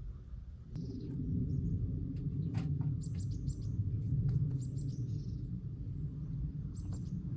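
Small birds chirping in short high calls, over a steady low rumble that starts about a second in, with a few sharp clicks.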